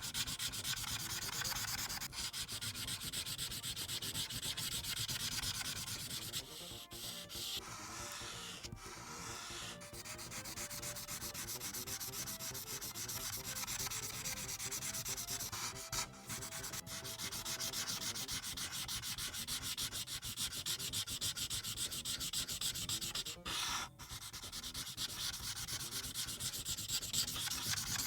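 Ohuhu Kaala series marker nib rubbing over paper in rapid back-and-forth coloring strokes, with a few short breaks where the marker lifts.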